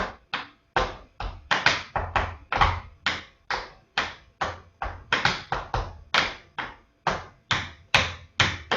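Tap shoes striking a hard floor: a quick, syncopated run of sharp separate taps, about three to four a second in uneven groups, as the dancer works through Shim Sham tap steps.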